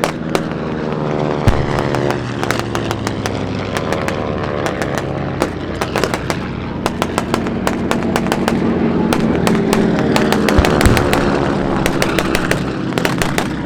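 Propeller warplanes flying low over the field, their engine note falling in pitch as each passes, over a steady crackle of many sharp pops from simulated gunfire and pyrotechnics. There is a deep boom about a second and a half in and another near the end.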